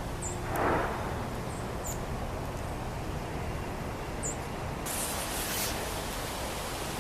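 Steady wind noise and rustling outdoors, with three short, faint, high bird chirps scattered through it.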